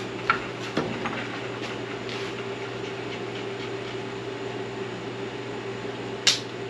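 A few sharp metallic clicks and clunks, the loudest near the end, from an SM465 four-speed manual truck transmission being shifted by hand to check that reverse engages. A steady hum runs underneath.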